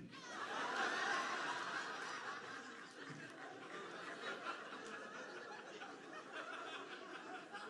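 Audience laughing. It swells about a second in and then slowly dies away.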